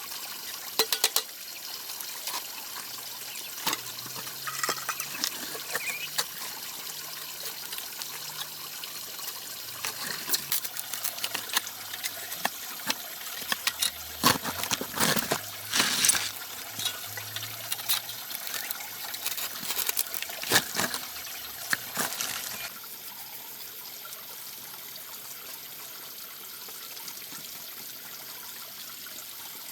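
Steady trickle of running water, with irregular sharp knocks and clicks over it that stop about three-quarters of the way through.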